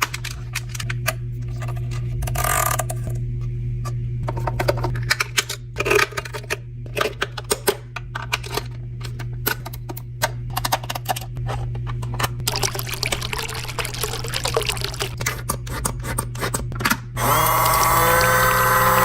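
A small electric motor of a mini washing machine humming steadily under repeated clicks and knocks of parts being handled. About two seconds before the end, water starts running.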